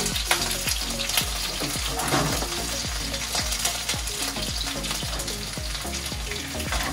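Chicken pieces shallow-frying in oil in a frying pan, sizzling steadily as they are turned with chopsticks, just after the gas has been switched off.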